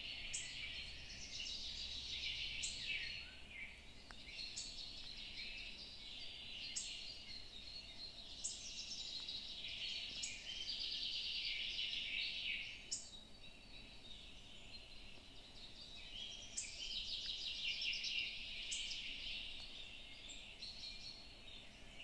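Songbirds singing: short chirping, trilling phrases that start with a sharp high note and follow one another every two seconds or so.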